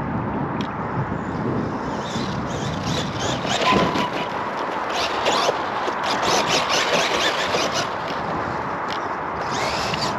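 Small electric RC truck driving over a track, its motor running steadily while the tyres and chassis scrape and clatter over the surface, with scattered clicks.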